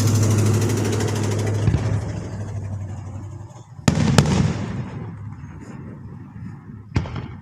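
Fireworks: a dense crackling barrage dying away over the first few seconds, then two sharp bangs in quick succession about four seconds in and a single bang near the end.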